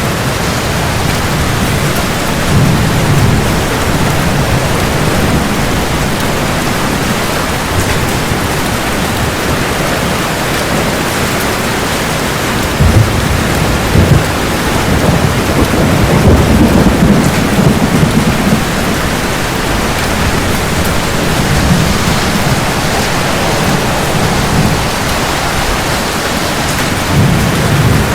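Heavy rain falling steadily, with thunder rumbling several times over it. Two sharp thunder cracks come about halfway through, followed by the loudest and longest roll of thunder.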